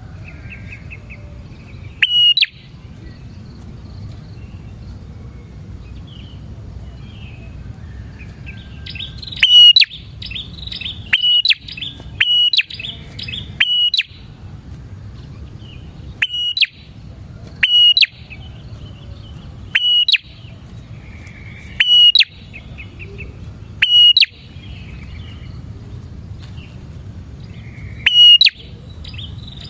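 Prenjak (prinia) calling: short, loud, sharp chirps repeated about every two seconds, with a quicker run of them about a third of the way in, over a steady low background rumble.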